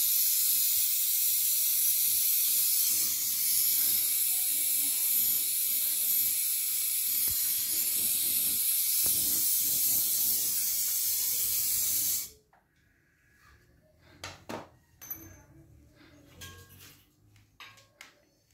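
Gas brazing torch flame hissing steadily while it heats a copper refrigerant pipe joint, then shut off abruptly about twelve seconds in. A few light clicks and knocks follow.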